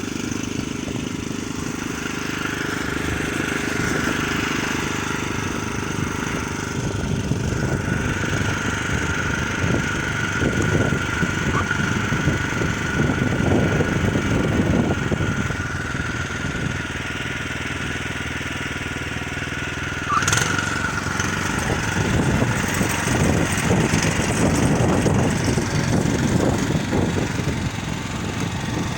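Neva MB-23 walk-behind tractor's engine running steadily under load as the machine pushes through packed snow.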